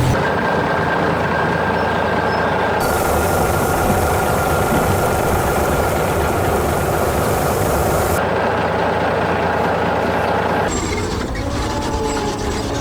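Heavy vehicle engine sound effects running steadily. The layers change abruptly: a hiss comes in about three seconds in and drops out near eight seconds, and the sound shifts again near eleven seconds.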